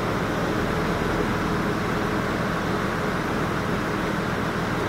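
1999 Porsche Boxster's 2.5-litre flat-six idling steadily just after a cold start.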